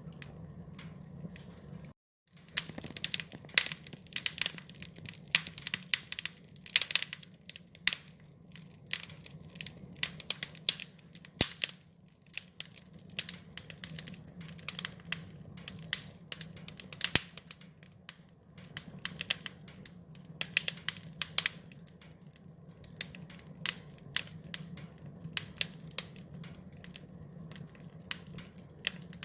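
Wood fire crackling: irregular sharp pops and snaps, several a second, over a low steady rumble. The sound drops out completely for a moment about two seconds in.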